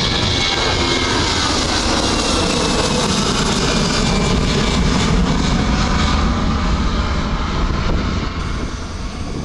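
Twin CFM56 turbofan jet engines of an Airbus A320-214 running loud and steady as the airliner passes, with a faint falling whine over the first few seconds. The noise eases off near the end.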